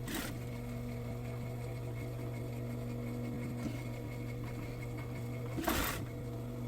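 Sewing machine running steadily as it stitches along a seam, with a short scrape of noise just after the start and another near the end.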